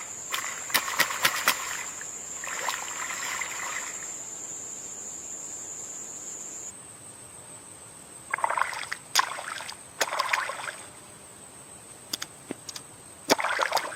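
Water splashing and trickling in short, uneven bursts, five clusters in all, with sharp clicks among them. Underneath runs a steady thin high-pitched tone that steps slightly higher about halfway through.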